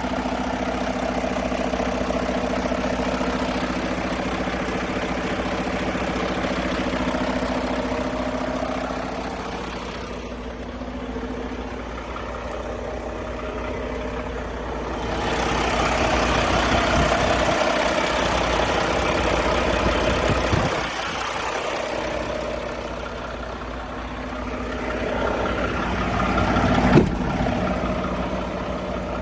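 Diesel engine of a 2019 Mack Pinnacle tri-axle dump truck running at idle, steady throughout, growing louder for a few seconds about halfway through, with one brief sharp sound near the end.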